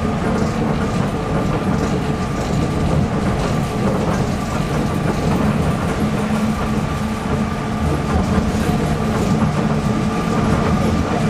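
Tokyo Metropolitan Bureau of Transportation 300 series rubber-tyred automated guideway train running between stations, heard from inside the car: a steady rumbling hum with a few held tones over it.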